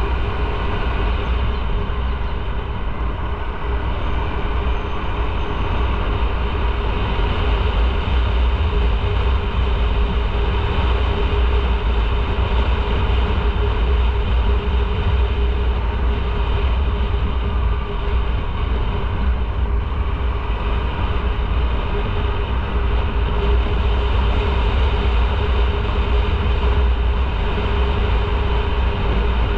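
Motorcycle riding at a steady speed: a steady engine hum under heavy wind rumble on the bike-mounted microphone.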